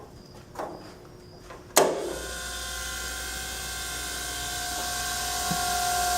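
DoAll surface grinder switched on with a sharp click about two seconds in. Its motor and wheel spindle then run with a steady hum and a high whine that grows slightly louder as it comes up to speed.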